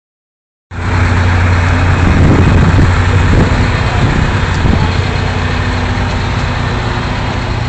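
Heavy truck engine idling, loud and steady, starting just under a second in.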